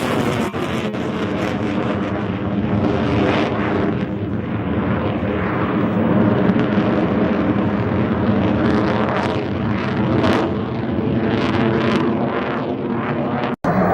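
F-22 Raptor's jet engines running loud and steady in flight during its demonstration, with the sound dropping out for an instant near the end.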